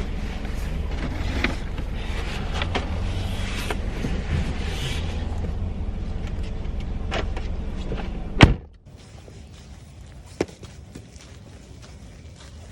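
Car idling with a steady low rumble heard from inside the cabin, with small knocks and rustles, then a car door slams shut about eight and a half seconds in and the rumble drops away to a faint outdoor hush, broken by one click a couple of seconds later.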